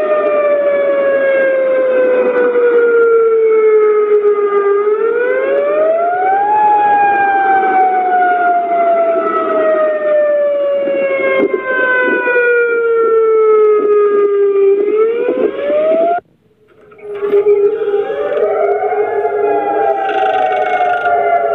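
Outdoor civil-defense warning siren wailing after an earthquake, its pitch falling slowly over about five seconds and then rising quickly, over and over. The sound drops out for about a second some 16 seconds in, then comes back.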